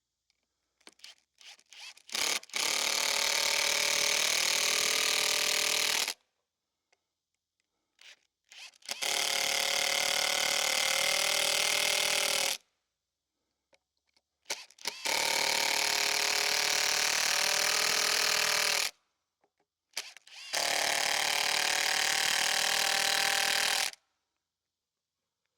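A cordless power drill driving long screws into a timber beam: four runs of about four seconds each, a few seconds apart, its motor note bending a little as each screw goes in. A few light clicks come before the first run.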